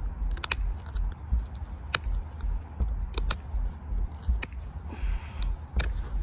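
Pressure flaking a stone point with a hand-held flaker: sharp, irregular clicks and snaps as small flakes pop off the edge, with light scraping in between. A low rumble runs underneath.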